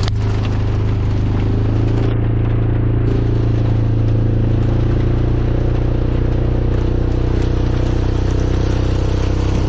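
Vehicle engine running steadily, a constant low drone with no change in pitch.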